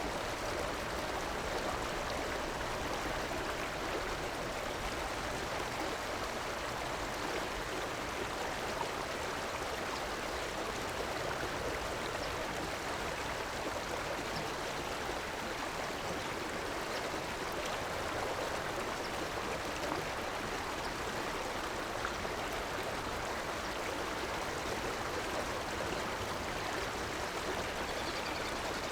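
River water running steadily over stones, a continuous even rush with a faint gurgle.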